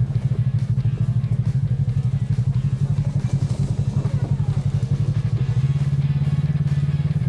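Side-by-side UTV engine running at a steady low speed, a rapid even pulsing, with background music and drums over it.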